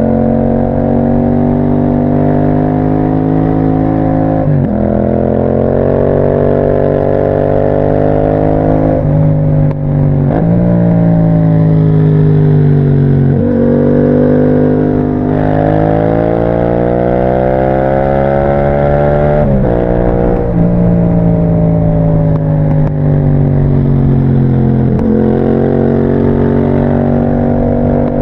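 Yamaha MT-07's 689 cc parallel-twin engine running through an Akrapovic exhaust under way. The engine note climbs steadily within each gear and breaks off at quick gear changes every few seconds.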